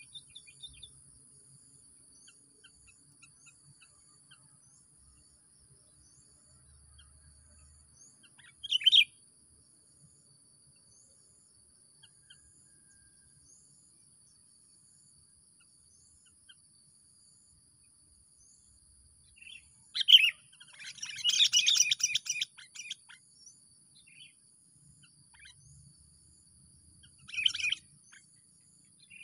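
Songbird giving a short, sharp call about nine seconds in, a longer chattering burst around twenty seconds in, and another short call near the end, over a steady high insect whine.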